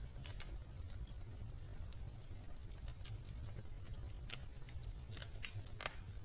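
Wood fire in a fireplace crackling, with irregular sharp pops and snaps over a steady low rumble. The loudest pop comes near the end.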